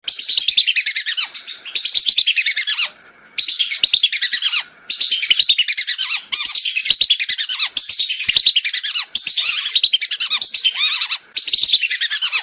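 Whistling ducks (belibis) calling: high, whistled phrases of rapid falling notes, each about a second long, repeating over and over with brief pauses. The calls are from a lure recording made to draw whistling ducks in.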